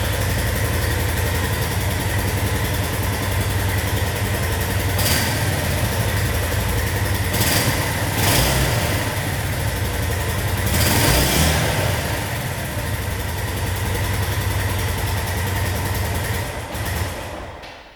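Suzuki GZ250 Marauder's single-cylinder four-stroke engine idling through its exhaust, with a few brief throttle blips in the middle. Near the end the engine is switched off and dies away.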